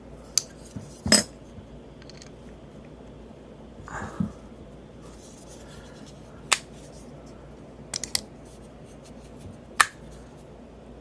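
Spyderco Para Military 2 folding knife with aluminum scales being opened and closed by hand: several sharp metallic clicks a few seconds apart as the blade locks and releases, a pair close together near the end.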